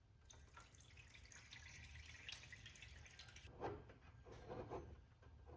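Faint water dripping and trickling, with a few soft knocks near the end.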